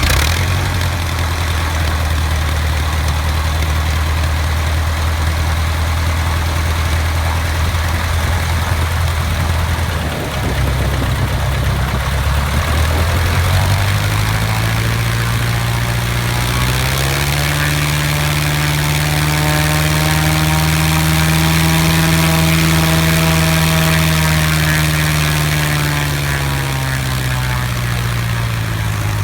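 Lycoming 160 hp four-cylinder air-cooled aircraft engine running: it idles steadily, is run up to a higher speed about halfway through, holds there for several seconds, then winds back down to idle near the end.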